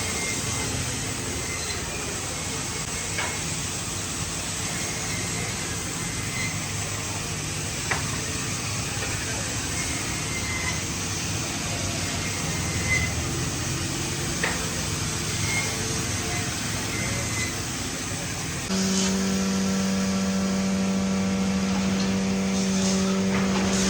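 Steady workshop noise with a few light knocks, then about nineteen seconds in a motor switches on and runs at a steady pitch.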